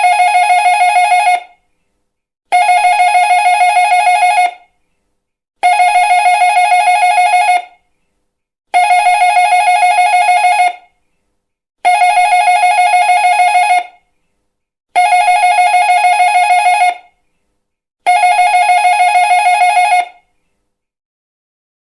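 Electric doorbell ringing in repeated trilling rings, each about two seconds long and about three seconds apart, seven times over; it stops near the end.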